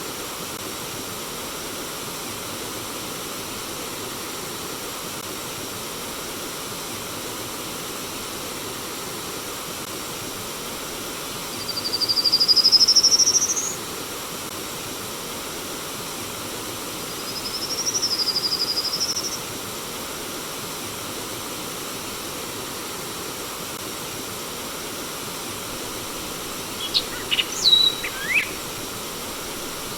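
Steady rush of flowing stream water, with a bird giving a long rising high whistle about twelve seconds in, a second whistle that dips then rises a few seconds later, and a quick burst of short chirps near the end.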